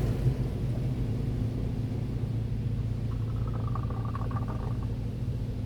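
Inside an automatic car wash bay, the high-pressure water spray cuts off at the start, leaving a steady low machinery hum. A faint wavering tone comes in about three seconds in.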